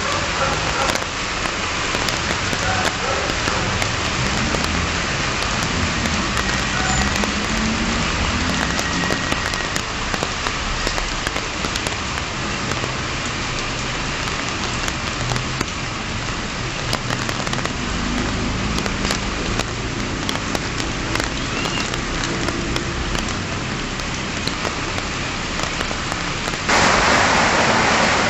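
Heavy rain falling steadily in a continuous hissing wash. About 27 seconds in it turns abruptly louder and harsher.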